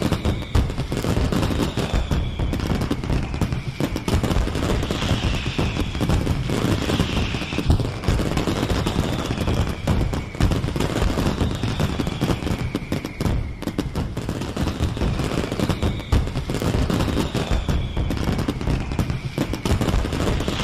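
Fireworks display: a dense, continuous barrage of bangs and crackles, with a faint falling whistle every few seconds.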